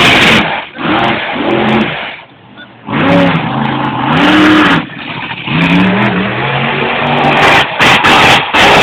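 Monster truck engine revving hard and loud in three long bursts, its pitch climbing and falling, with short lulls about two seconds and five seconds in.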